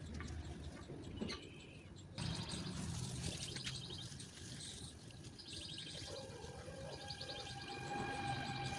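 Small birds chirping with quick repeated trills, over a low outdoor rumble. From about six seconds in, a steady held tone with overtones joins them.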